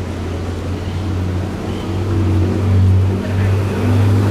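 Low, steady rumble of a supercar's engine, growing louder about two seconds in, with a brief dip a little after three seconds.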